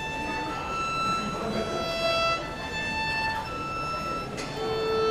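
Solo violin playing slow, held notes one after another, each about a second long, with a lower note held near the end.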